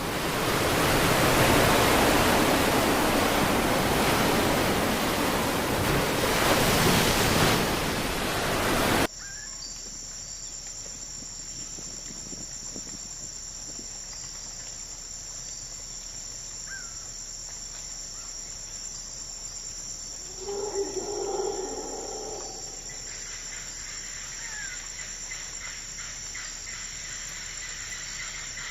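Tropical forest ambience: a loud, even rushing noise for about the first nine seconds cuts off abruptly, giving way to a steady high-pitched chorus of insects. A short animal call rises out of the insect drone about two-thirds of the way through, and fast pulsing chirps join near the end.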